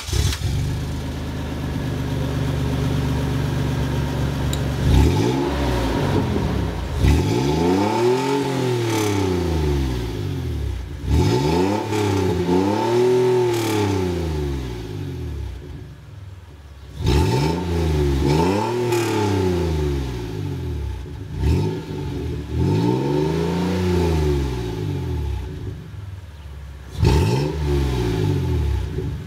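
Exhaust of a 2004 Toyota Tacoma's 3.4L 5VZ-FE V6, running through an AeroTurbine 2525XL muffler with the catalytic converter deleted and a turndown tip. It idles steadily for about five seconds, then is revved again and again, about six blips that climb and fall back to idle.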